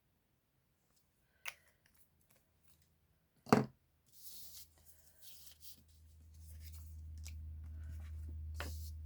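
Cardstock being handled and pressed down on a crafting table: a light click, a sharper tap about three and a half seconds in, then paper rustling and rubbing, over a low hum that grows louder in the second half.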